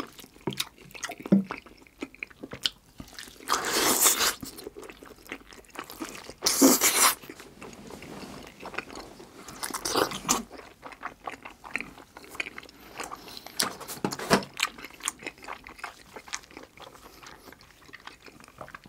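Close-miked chewing and biting of braised pig's trotter (jokbal): wet mouth sounds and many small clicks, with two longer, louder noisy bursts about four and seven seconds in.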